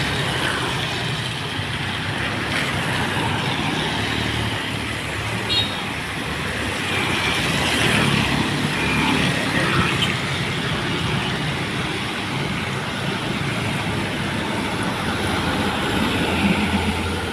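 Heavy dump truck diesel engine running steadily, with continuous road and tyre noise.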